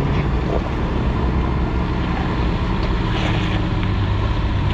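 A truck's engine running steadily, a low even drone with no change in pace.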